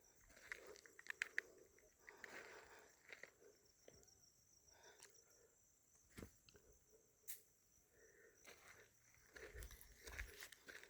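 Near silence: faint outdoor ambience with scattered soft clicks and crunches, a quick cluster of them a little after a second in.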